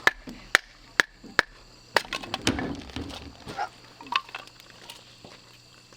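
A run of sharp clicks and cracks: four single ones about half a second apart, then a busier cluster of crackling and clatter about two seconds in, thinning out with a few more clicks.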